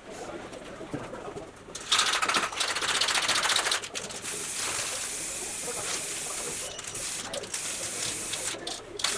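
A steady spraying hiss that starts about two seconds in, rough and crackly for the first two seconds, then smoother with a few brief breaks near the end.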